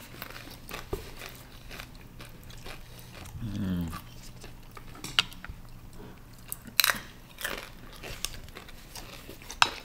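People chewing and biting into Chinese takeout food, with a few sharp clicks around seven seconds in and near the end, and a short low hummed "mm" about three and a half seconds in.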